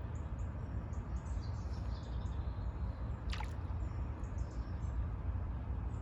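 Small birds chirping faintly over a steady low rumble, with one quick falling call about three seconds in.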